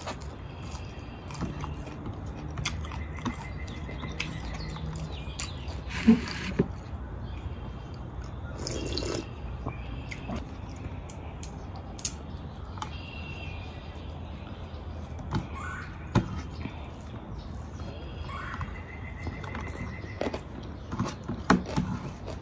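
Chewing and eating sounds, with scattered light clicks from hands handling food and plates, and birds calling now and then in the background.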